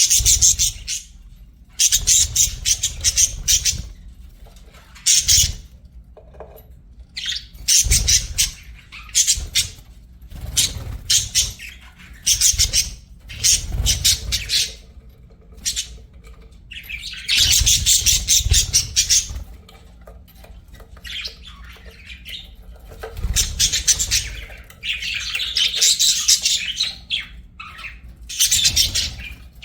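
Budgerigars chattering and warbling in repeated bouts of fast, high chirps and squawks, with short pauses between bouts.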